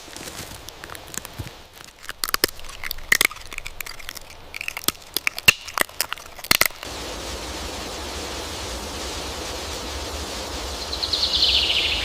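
A quick, irregular run of sharp clicks and taps with a few short chirps. It gives way suddenly to steady outdoor background noise, with a short buzzy call near the end.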